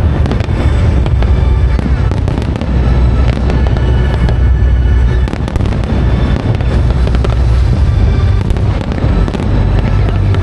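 Aerial fireworks bursting in a dense, continuous run of bangs and crackles over a deep rumble, with show music playing along underneath.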